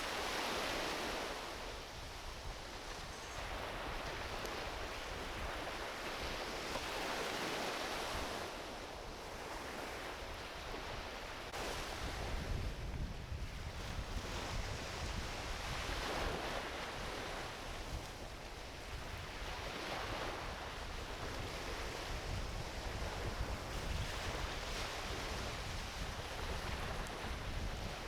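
Small ocean waves washing onto a beach, a soft surf that swells and falls every few seconds. Wind rumbles on the microphone from about halfway through.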